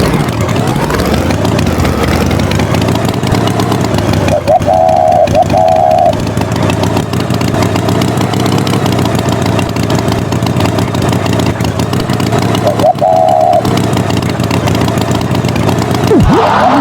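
Tractor engine sound effect running steadily, with short warbling tones cutting in twice.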